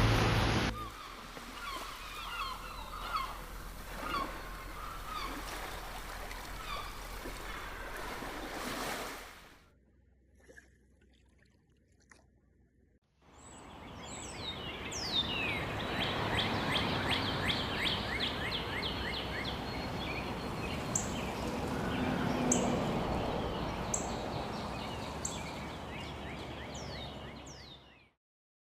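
Wild birds calling and chirping over a steady outdoor background hiss, in two stretches split by a few seconds of near silence. The second stretch holds quick runs of falling chirps.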